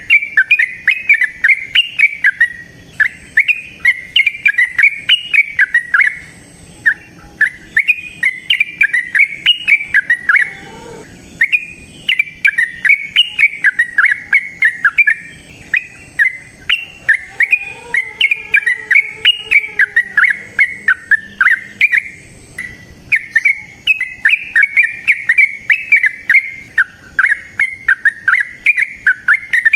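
Yellow-vented bulbul (trucukan) singing its long rapid song: fast strings of loud, bubbling whistled notes in phrases of several seconds, with brief pauses between them.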